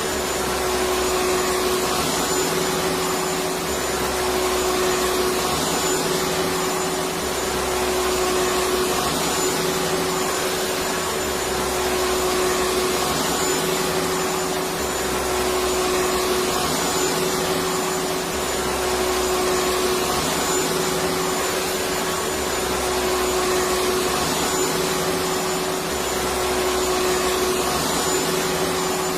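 Electric vacuum cleaner running steadily: a dense whooshing whir with a strong steady hum and a slow low pulsing about every two seconds.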